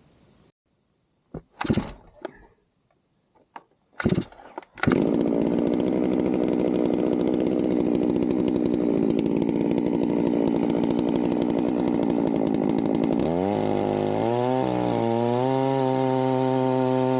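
A few sharp knocks, then a chainsaw mill's chainsaw starts up about five seconds in and runs at high speed. About thirteen seconds in, its pitch drops and it settles into a steady idle.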